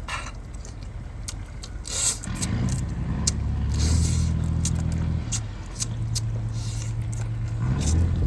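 An engine running, a low steady drone that starts about two seconds in and shifts in pitch around the middle, with scattered sharp clicks over it.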